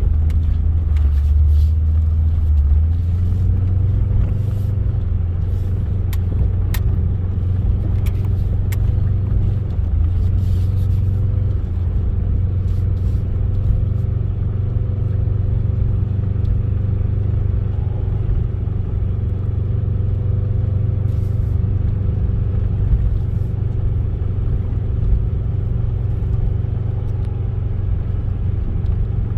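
Off-road vehicle's engine and drivetrain running at a steady low rumble as it drives through about a foot of snow, with a few sharp clicks in the first ten seconds or so.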